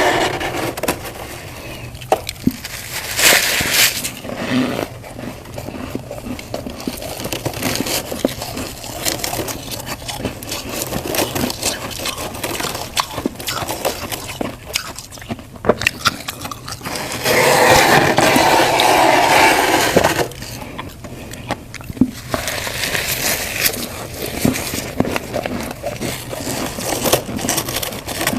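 Close-up crunching of freezer frost being bitten and chewed, a dense crackling with many sharp snaps and some scraping. About 17 seconds in there is a louder stretch of crunching lasting about three seconds.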